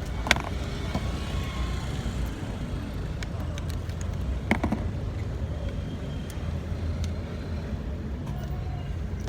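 Steady low background rumble, with two sharp clicks about four seconds apart.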